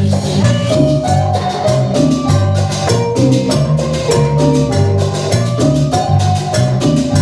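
Live band playing Latin dance music: a steady percussion beat with a bass line and a bright melody on top.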